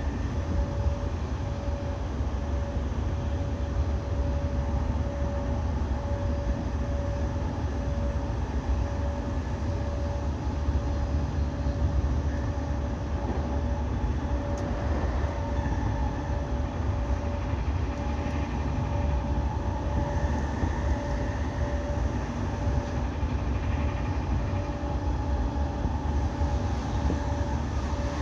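E217 series electric train running along the Sobu Rapid Line: a steady low rumble of wheels on rail with a thin steady tone over it, and a faint higher whine that comes in about halfway through.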